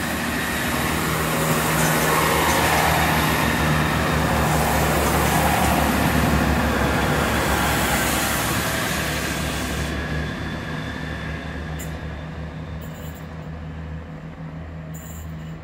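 Great Western Railway diesel multiple unit pulling out and passing close by: a steady low engine hum under the rush of the train. The rush is loudest for the first ten seconds, then fades as the train draws away.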